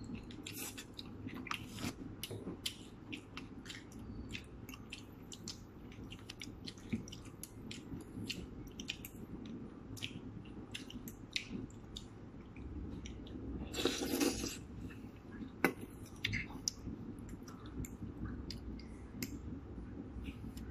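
Close-up eating sounds: chewing of fried noodles and fried rice, with many short clicks of metal spoons and forks against plates. A brief, louder noisy burst comes about two-thirds of the way through.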